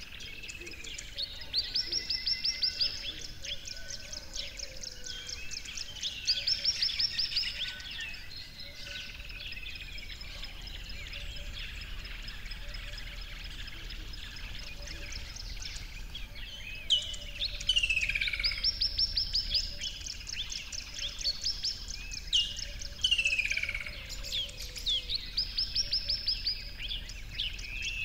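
Birds chirping, with a rapid high trill that comes back several times.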